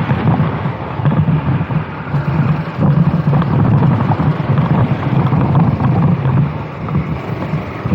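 Racing kart engine running at speed, its note swelling and dipping every second or so, with wind buffeting the onboard microphone.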